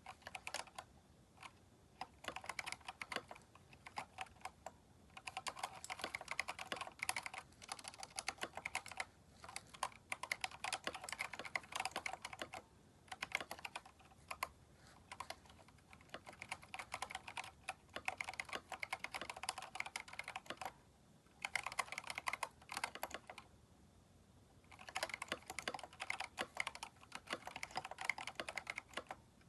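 Typing on a Keychron K4 mechanical keyboard fitted with replacement keycaps: fast runs of key clicks in bursts, broken by short pauses.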